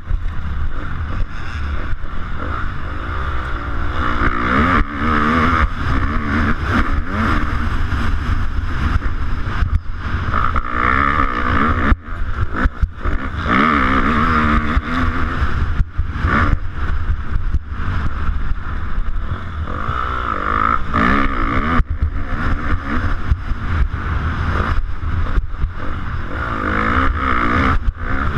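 250cc motocross bike engine revving up and falling back over and over under hard riding, with heavy wind rumble on a helmet-mounted camera. The engine sound dips sharply for a moment several times, about 12 s and 16 s in.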